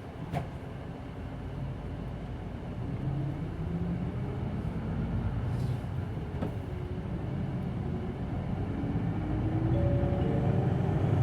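Hino Blue Ribbon City Hybrid bus pulling away from a stop, heard from inside the cabin. The engine and drive whine rise in pitch as it accelerates, getting louder toward the end, with a single knock about half a second in.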